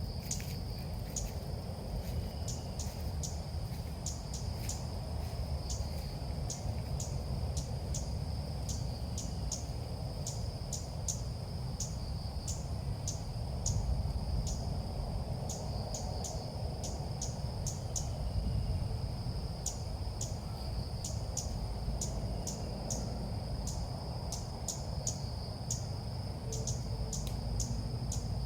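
Insects chirring outdoors: one steady high-pitched drone with rapid, uneven ticks on top, about two to three a second, over a low background rumble.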